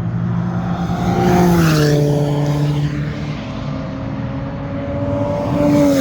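Mazda RX8's twin-rotor rotary engine running under way on track. Its pitch steps down a little under two seconds in as the revs fall, then holds steady, with a brief rise and drop near the end.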